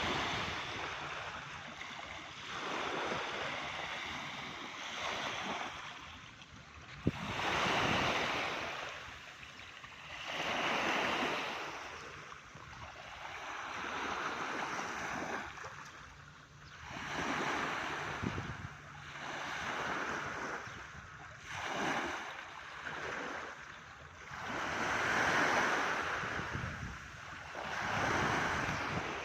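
Sea waves breaking and washing in, the surf swelling and fading every few seconds.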